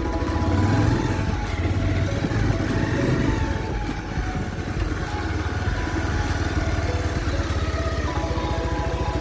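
Motorcycle engine running steadily while being ridden, with an even low pulsing rumble.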